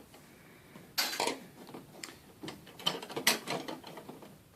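Small metal door hardware clinking and rattling as it is handled, with sharp clicks about a second in and a busier patch of clatter around three seconds in.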